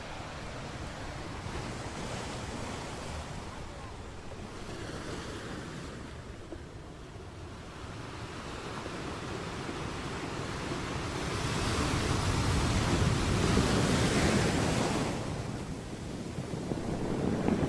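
Sea waves on the shore: a steady wash of surf that builds into a louder wave from about ten seconds in, peaks, falls away, and starts to rise again near the end.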